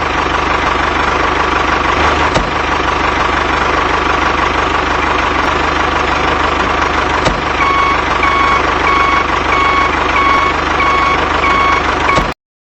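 Tractor engine running steadily at idle. About two-thirds of the way through, a reversing alarm starts beeping about twice a second. Both cut off suddenly just before the end.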